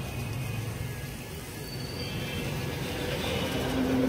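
Street ambience: a steady low rumble of road traffic, with a faint steady tone coming in near the end.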